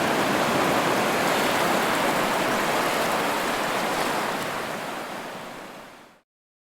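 Ocean surf: a steady rush of breaking waves that fades out and stops about six seconds in.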